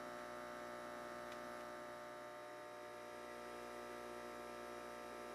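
Faint, steady electrical hum with no change in pitch or level.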